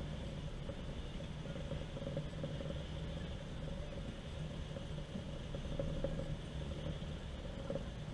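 A vehicle engine idling steadily: an even, low running sound with no revving.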